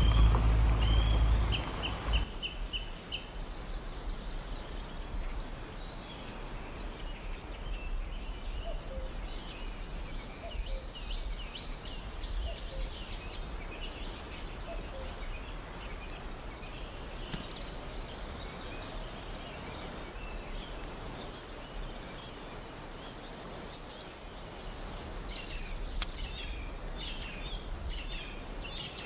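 Small birds chirping and singing throughout, many short quick calls over a low steady background hum. A loud low rumble sounds at the start and ends about two seconds in.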